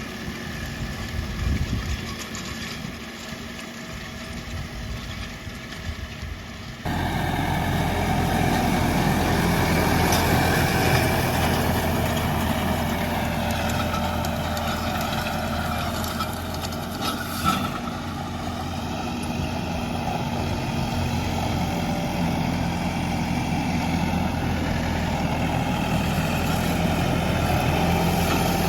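New Holland T5.90 tractor's diesel engine running steadily. It is quieter with irregular low rumbling for the first seven seconds or so, then abruptly louder, with a wavering whine over the engine note.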